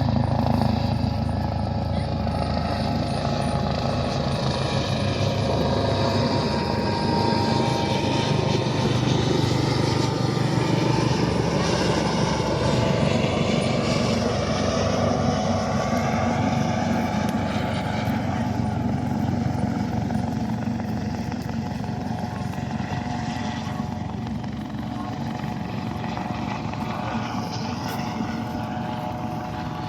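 Aircraft engines during a pass: a steady drone that grows loudest about a third of the way in, then slowly fades, with gliding changes in pitch as the aircraft goes by.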